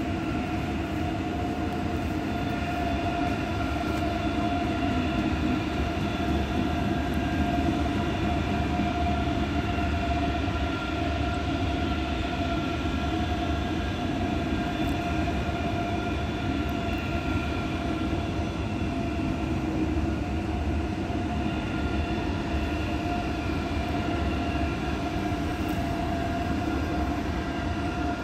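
Electric train running steadily: a low rumble under a constant high whine that holds one pitch throughout.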